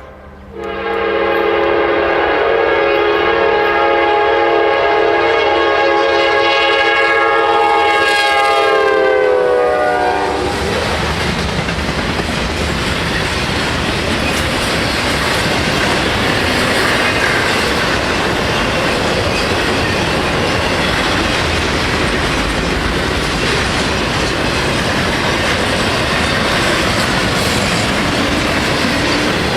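Norfolk Southern freight train's locomotive air horn sounding one long chord for about ten seconds, its pitch dropping near the end as the locomotive passes, then the train's cars rolling by steadily.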